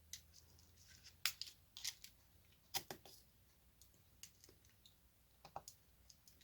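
Scattered small, sharp clicks and taps of a diamond-painting drill pen picking up resin drills from a tray and pressing them onto the canvas, about eight in all, over near silence.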